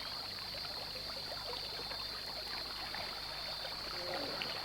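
Riverside ambience: a steady high-pitched insect chorus over soft trickling water, with faint scattered small ticks.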